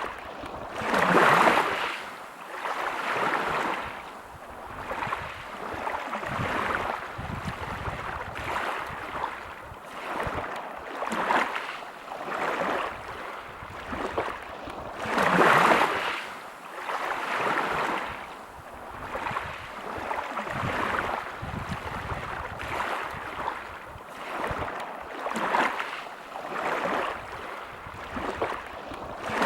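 Sea waves breaking on a pebble beach, surging and drawing back in swells every couple of seconds, with two stronger breaks about a second in and about halfway through.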